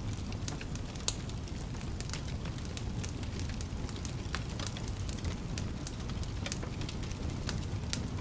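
Fire in a fireplace crackling: frequent irregular sharp pops and snaps over a steady low rumble of the flames, with one louder pop about a second in.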